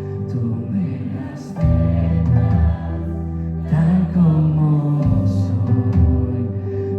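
Live band playing a slow worship song: bass, piano, guitars and drums, with cymbal washes about one and a half and five seconds in.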